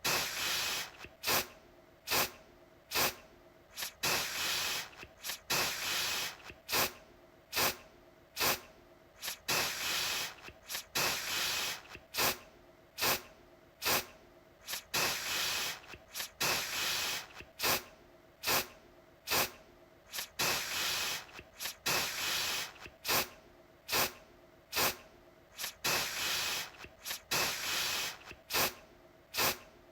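Aerosol deodorant can sprayed in a run of short bursts, about one a second, some quick puffs and some longer hisses.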